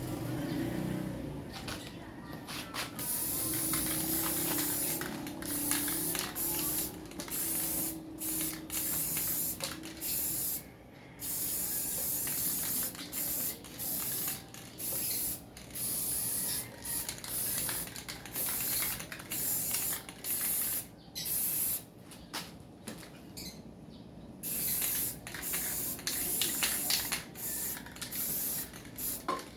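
Waste-oil burner stove, fed with used engine oil and used cooking oil, hissing in irregular spurts that start and stop every fraction of a second to a second, like a spray.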